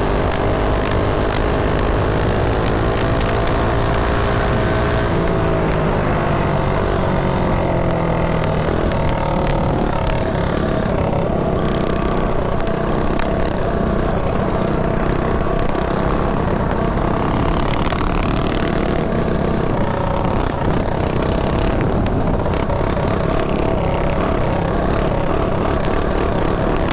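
Mini bike's small single-cylinder engine running under way, its pitch rising and falling with the throttle, over wind rushing across the helmet-mounted microphone.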